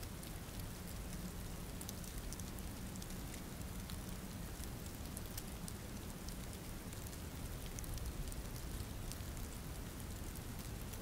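Steady rain falling, with many scattered close drops ticking against a surface.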